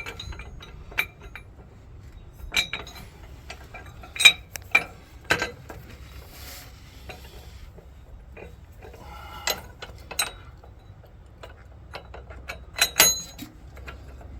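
Metal tools and hardware clinking and clanking against metal in irregular, scattered knocks, a few of them ringing briefly, during hands-on work fitting air bag suspension brackets.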